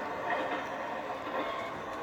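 Lionel Legacy R30 subway model train running on its track, a steady even running noise.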